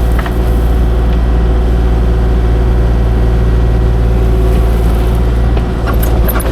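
Kubota KX040-4 mini excavator's diesel engine running steadily under working load, with a few short clicks near the end.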